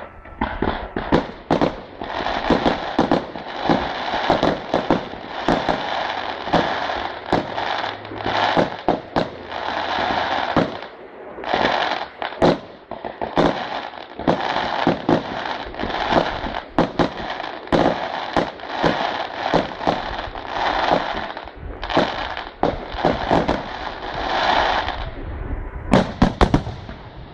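Fireworks display: a dense, rapid barrage of bangs with crackling between them, shells bursting one after another with hardly a pause.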